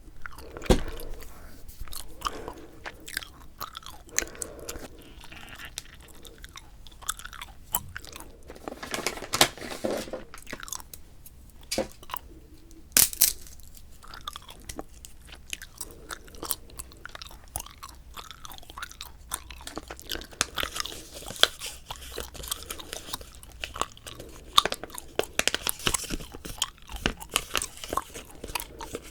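Bubble gum being chewed close to the microphone: wet smacking and clicking at an irregular pace, with a few louder, sharper snaps.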